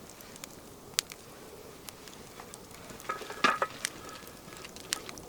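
Sausages sizzling over a crackling campfire, with scattered sharp clicks and a cluster of louder knife taps about three and a half seconds in as onion is sliced.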